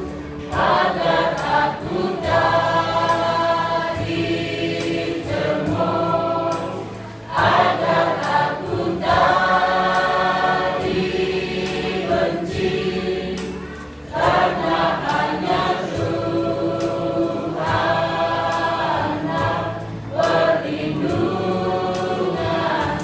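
Church choir of elderly singers singing together in several voice parts, in sung phrases with short breaks about seven and fourteen seconds in.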